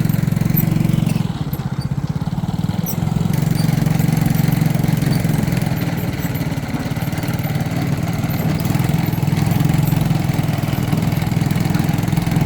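A small engine running steadily with a fast pulsing drone, easing off briefly about a second in and picking up again.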